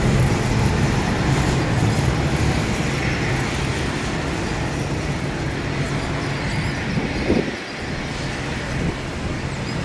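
Jet aircraft engine rumble, loudest at first and slowly fading as the plane moves away, with a brief thump about seven seconds in.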